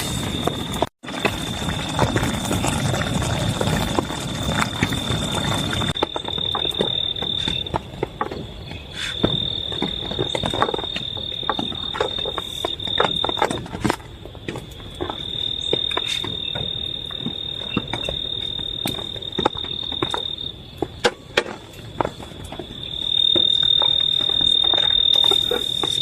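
A steady high-pitched insect trill that swells and fades, over rain with many scattered drops tapping; the rain is heavier for the first few seconds and again near the end. The sound cuts out briefly about a second in.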